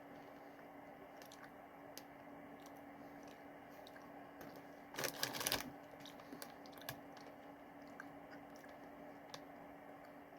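Popcorn being eaten: faint scattered crunches and clicks of chewing, with a louder crackling burst lasting about half a second around five seconds in.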